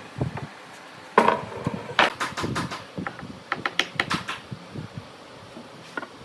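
Irregular knocks, taps and clatter of wood and tools being handled, with a loud knock about a second in and two quick clusters of sharp strikes after it.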